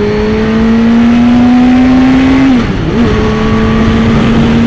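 Suzuki GSX-R600's inline-four engine under way, its pitch climbing slowly as the bike accelerates, then dropping briefly for a gear change a little past halfway before running on steadily.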